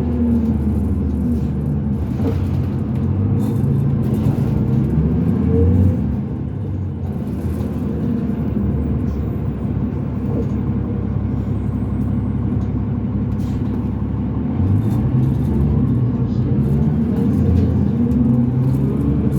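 Cummins ISL diesel engine of a 2005 New Flyer D40LF transit bus, heard from inside, pulling through its ZF six-speed automatic. The engine pitch drops about a second in as the transmission shifts, holds steady, and rises again in the last few seconds as the bus accelerates.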